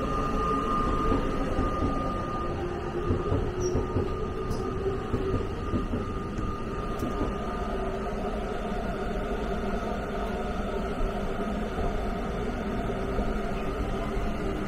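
JR East E261 series Saphir Odoriko electric train running, heard from inside the carriage: a steady rumble of wheels and running gear. A faint high tone fades out about two seconds in.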